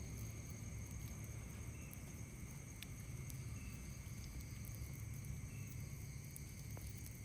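Night insects droning steadily at several high pitches, with a short, faint call repeating about every two seconds. A few sharp crackles from a wood campfire and a low steady rumble sit underneath.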